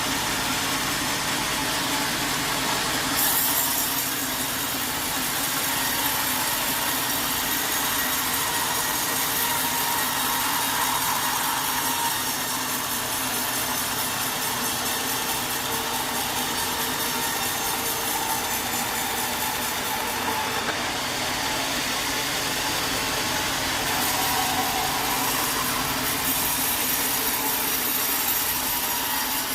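Sawmill running steadily, its saw cutting through wood with an engine running under it. A harsher high hiss comes in about three seconds in, drops out briefly about two-thirds of the way through, and returns.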